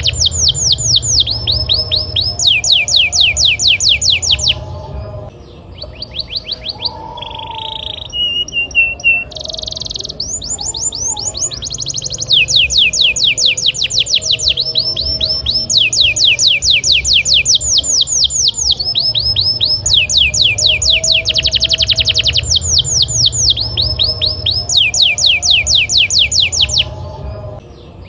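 Domestic canary singing: fast rolls of repeated high notes that sweep downward, several a second, in phrases of a few seconds with short breaks and a few brief buzzy notes between.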